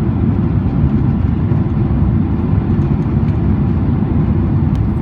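Steady, low rumble of a Boeing 767-400ER's engines and airflow, heard inside the passenger cabin.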